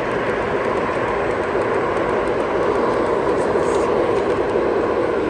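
Model train running on a club layout, with a steady, even train rumble that has no breaks or sudden knocks.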